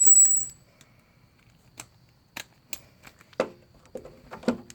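A short, loud high-pitched whine at the very start, then scattered light clicks and knocks of tools on metal as the small 10 mm screws holding the carburetor intake to the mower engine are driven and snugged down.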